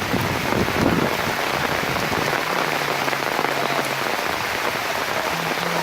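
Steady rain falling on surfaces, a dense, even hiss.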